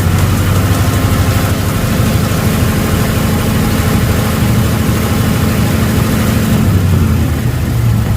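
Ford 5.0 Coyote V8 engine of a 2012 F-150 held at raised revs, then dropping back toward idle near the end.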